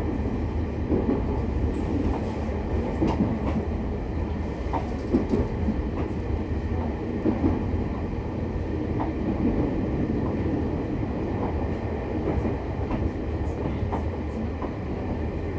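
Interior running sound of a JR East E501 series electric train's motor car, a steady rumble with irregular clicks of the wheels over the rails.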